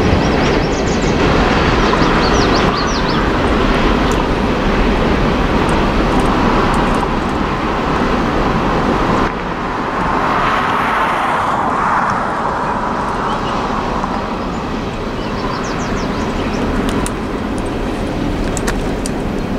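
Loaded coal hopper cars of a freight train rolling by, a steady rumbling rush of steel wheels on rail that drops a little in level about halfway through.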